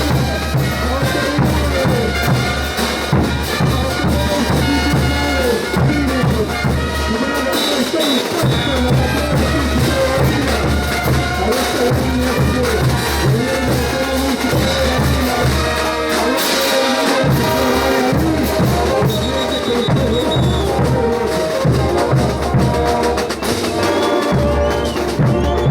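Bolivian brass band playing ch'uta dance music: trumpets and other brass carry the melody over a steady beat of drums.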